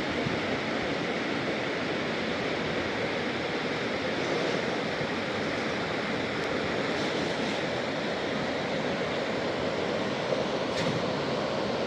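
Steady rushing noise of heavy water, such as storm rain or floodwater, even and unbroken, with one brief sharp click near the end.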